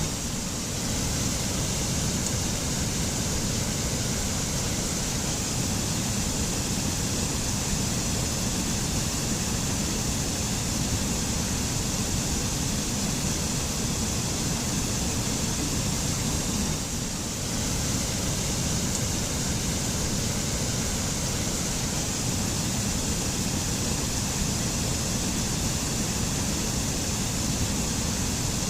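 Mountain waterfall in a forest: a steady, unbroken rush of falling water.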